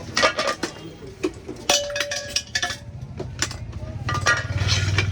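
Irregular clinking and clattering of small metal and hard objects being handled, one clink ringing briefly about a second and a half in. A low engine hum grows louder near the end.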